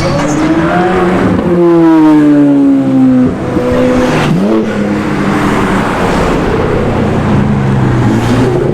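A sports car engine revving hard as the car accelerates past. Its pitch slides down about two to three seconds in, there is a short rev blip about four and a half seconds in, and then it settles into a steadier drone.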